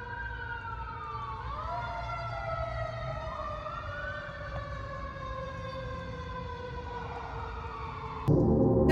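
Emergency vehicle siren wailing, its pitch sliding up and down in overlapping sweeps over a low rumble. Music cuts in near the end.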